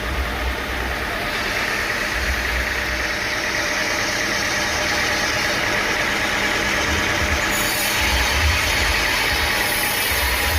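Sawmill machinery running steadily, a continuous mechanical drone; a higher hiss-like whine comes in after about a second and a half and holds.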